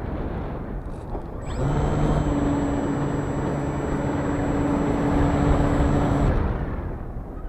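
RC model aircraft motor running at a steady pitch for about five seconds, starting with a short rising whine and then cutting off, over a steady low rushing noise.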